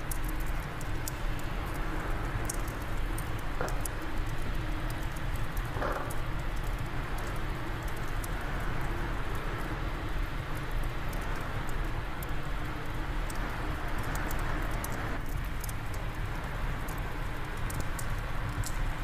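Fireplace fire crackling with many small sharp pops over a steady rush of wind.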